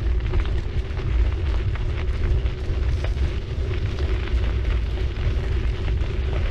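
Riding a city bicycle with wind buffeting the bike-mounted camera's microphone, over a steady tyre hum and a constant crackle of small clicks from the road surface.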